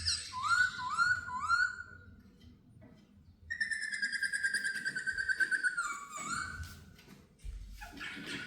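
Laughingthrush singing in clear whistles: three quick rising notes, a short pause, then a long trilled whistle that drops lower partway through, followed by a few more notes.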